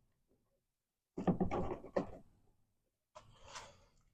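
A few short clicks and knocks from hands working loose a car's outer door handle and its trim, in a quick cluster about a second in and a fainter scuffle near the end.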